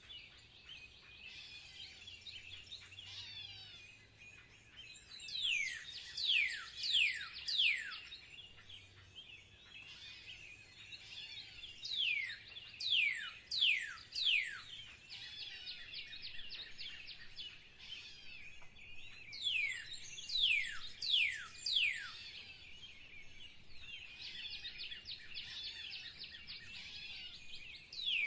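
Songbirds singing: loud downward-slurred whistles in runs of three or four, coming about every seven seconds, over continuous high twittering chatter.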